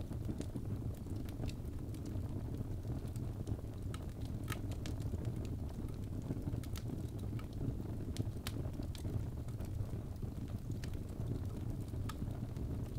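Birch logs burning in a fireplace: a steady low rumble of flames with irregular sharp crackles and pops scattered throughout.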